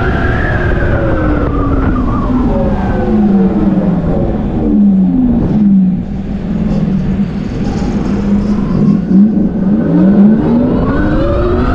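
Tarform Luna electric motorcycle's motor whine, falling in pitch as the bike slows over the first few seconds, then rising again near the end as it speeds up, over a steady low rumble.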